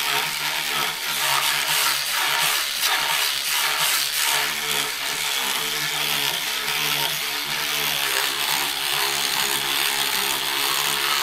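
Electric cleaning brush running, its small motor humming while the spinning bristles scrub soapy, textured plastic typewriter casing. The motor's pitch wavers as the brush works, over a steady scrubbing hiss.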